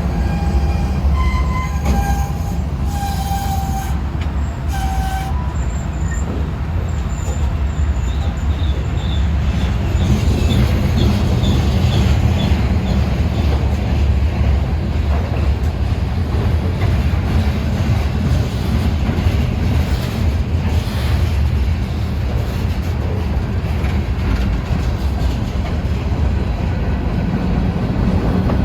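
Freight train rolling past: a steady low rumble of cars on the rails, with short wheel squeals during the first few seconds and a quick run of ticks later on.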